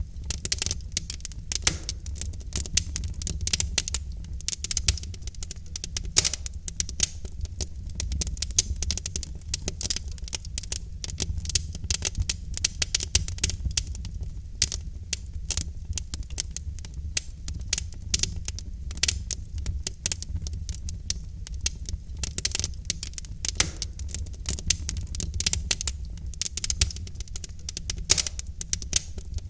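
Wood fire of burning logs crackling: dense irregular pops and snaps over a steady low rumble of the flames.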